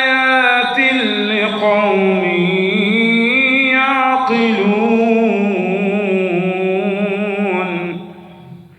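A man's voice reciting the Quran in the melodic, drawn-out tajweed style, holding long notes that waver and bend in pitch. The voice breaks off near the end for a breath.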